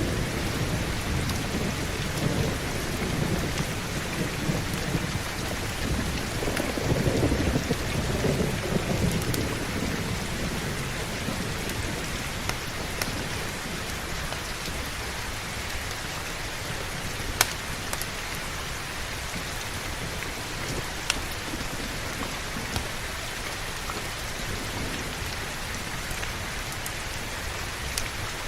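Heavy, steady rain with a low rolling rumble of thunder through the first ten seconds or so that then fades away, leaving only the rain. A couple of sharp pops stand out about halfway through.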